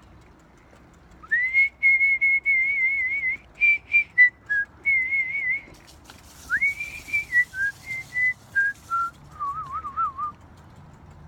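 A person whistling a tune, in held notes with a warbling vibrato and short notes between them, starting about a second in and stepping lower in pitch toward the end.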